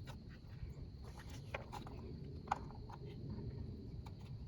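A few faint, scattered clicks and light taps from hands working on plastic clips and parts around the radiator, over a low steady background hum.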